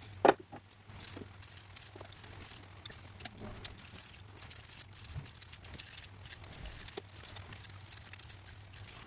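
Light, irregular metallic rattling and clicking, such as hand tools and small metal parts being handled, with a sharper click just after the start. A faint steady low hum lies underneath.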